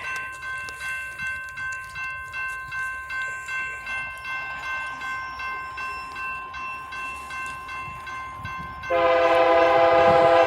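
Railroad crossing bell ringing in a steady rhythm, about two to three strikes a second. About nine seconds in, an approaching train's horn blasts loudly, a held multi-note chord.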